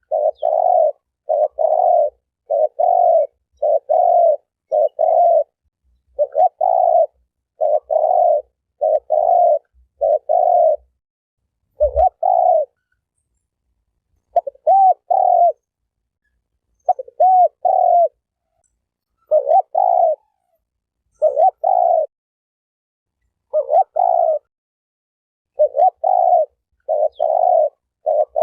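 Spotted dove (terkukur) cooing over and over: short coos in tight groups of two or three, a new phrase every couple of seconds, with a single sharp click about twelve seconds in.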